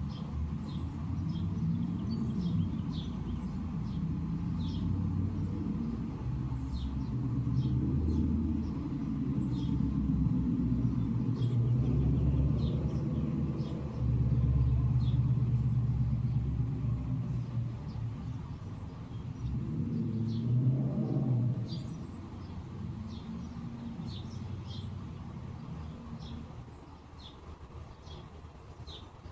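A low engine rumble that swells and fades over about twenty seconds, dropping away near the end, while small birds chirp in short high notes throughout.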